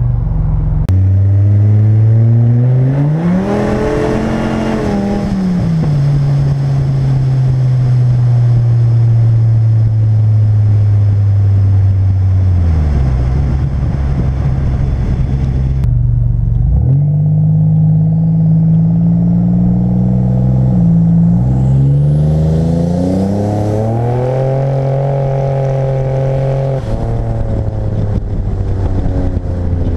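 Car engine driving on the road, revs climbing hard a few seconds in and falling back, running steady, then climbing again later with a sudden drop near the end, as with a gear change.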